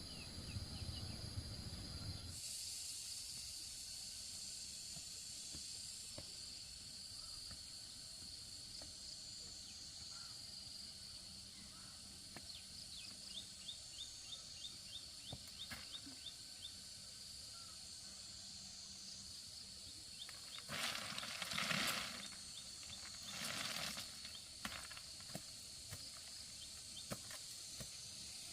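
Outdoor countryside ambience: a steady high hiss like insects, a quick run of short bird chirps about halfway through, and two brief bursts of rustling noise near the end.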